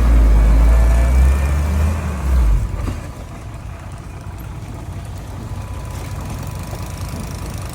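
Heavy diesel engine of an earthmoving machine running with a loud deep rumble, then dropping abruptly to a quieter steady idle about two and a half seconds in.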